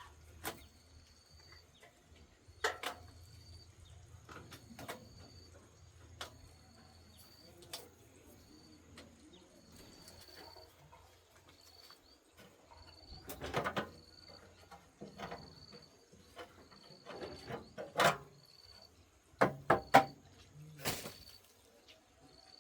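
Scattered clinks and knocks of tools and metal parts being handled during a machine repair, busiest in the second half. A short high chirp repeats about once a second behind them.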